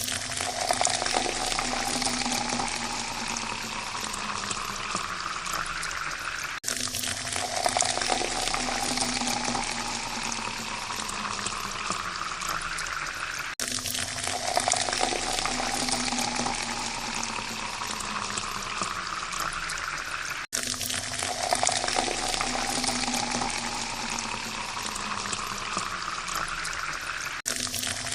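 Water poured into a glass, its pitch rising steadily as the glass fills. It repeats as four pours of about seven seconds each, each one cutting off sharply and starting again low.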